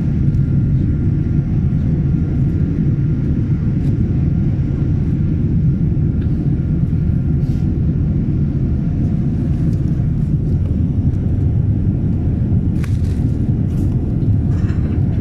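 Jet airliner cabin noise: a steady low rumble of engines and airflow heard from a passenger seat. A few faint clicks come near the end.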